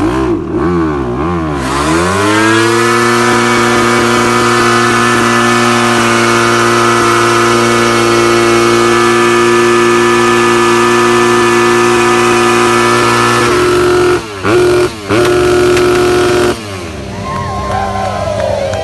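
Motocross bike engine revving up, then held at high revs at a steady pitch for about ten seconds. It cuts out briefly twice, drops off, and revs again near the end.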